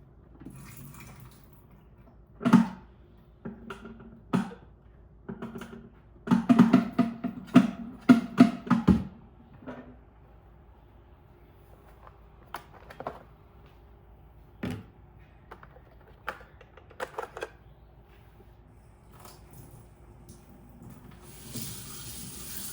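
Irregular knocks and clunks of hard plastic parts being handled, with a busy run of them about six to nine seconds in. Near the end a tap starts running.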